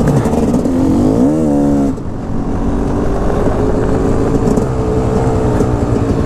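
Dirt bike engine revving. The pitch climbs over about a second, drops sharply near two seconds in, then runs at a fairly steady pitch.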